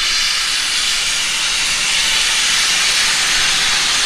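Steam locomotive venting steam: a loud, steady hiss with no exhaust beat.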